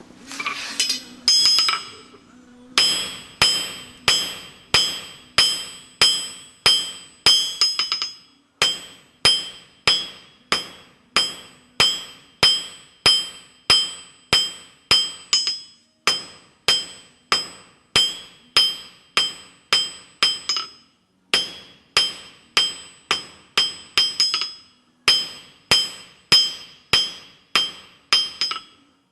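Blacksmith's hammer striking hot square steel stock on an anvil while drawing out a taper, about two blows a second, each with a bright ring, broken by a few short pauses. It opens with a quick run of wire-brush strokes on the steel.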